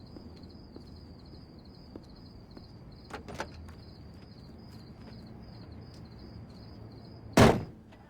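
Quiet background with a faint, steady, rapid high chirping, a couple of small clicks about three seconds in, then a door slamming shut once, loudly, near the end.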